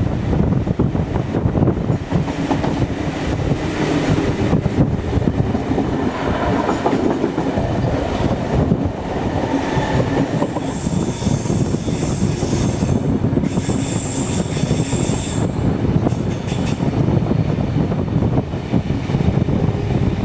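Passenger train running along the track with a steady rumble and rail clatter. About halfway through, the wheels squeal in two high-pitched stretches of a couple of seconds each, typical of wheel flanges grinding on a curve.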